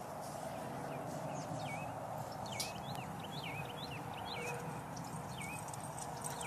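Small birds chirping in short, quick, repeated calls, thickest in the middle, over a steady outdoor background hum.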